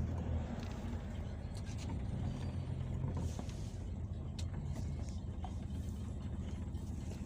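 Peugeot Boxer minibus under way, heard from inside the passenger cabin: a steady low engine and road rumble with a few light clicks.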